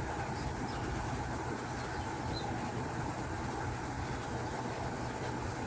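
A steady, even machine-like noise with no breaks or clear rhythm.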